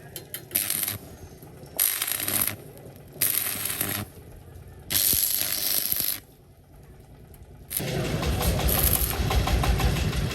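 Four short bursts of harsh mechanical noise, then the four-wheeler's engine starts up about eight seconds in and keeps running steadily.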